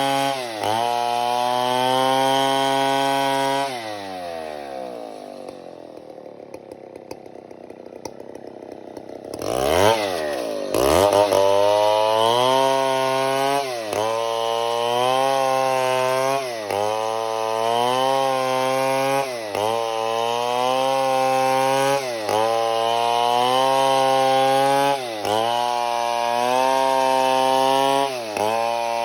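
Large two-stroke chainsaw cutting timber. The engine drops to idle a few seconds in and revs back up sharply about ten seconds in. It then runs under load, its speed dipping briefly every two to three seconds.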